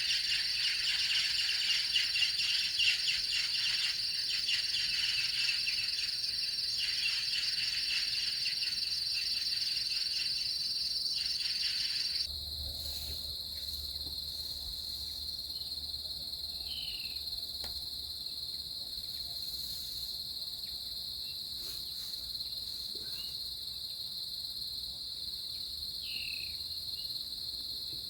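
Chorus of insects trilling steadily at a high pitch, with a denser, pulsing layer of calls that stops abruptly about twelve seconds in. A single steady high trill carries on after that, with a couple of short chirps later.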